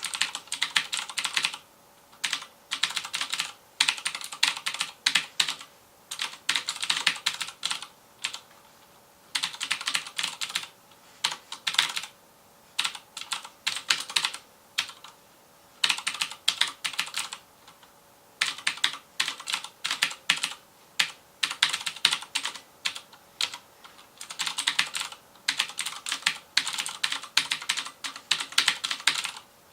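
Fast typing on a FILCO Majestouch Convertible 2 mechanical keyboard with clicky Cherry MX Blue switches: rapid keystrokes in runs of a second or two, broken by short pauses.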